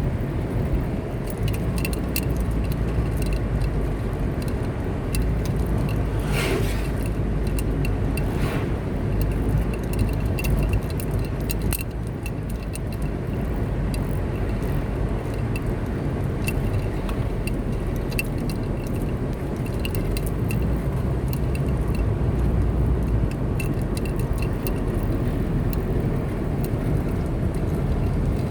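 A car driving at steady speed, its engine and tyre rumble running evenly, with many small ticks and rattles throughout and a couple of brief swishes about six and eight seconds in.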